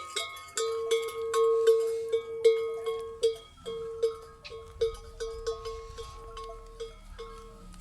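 Many metal neck bells on a herd of livestock clanking together: overlapping ringing strikes, one bell sounding over and over about three times a second. Loudest in the first half, then fading somewhat.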